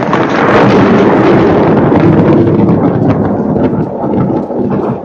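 Close thunder from a nearby lightning strike: a sudden loud crack, then a heavy rolling rumble that eases off slightly near the end.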